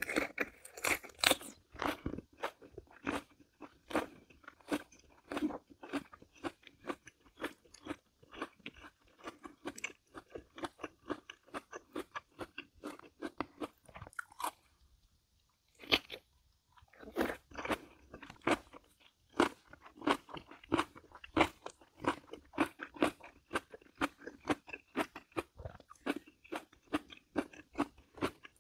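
Close-miked eating: a person biting and chewing crunchy food in quick, irregular crunches, with a short pause a little past halfway.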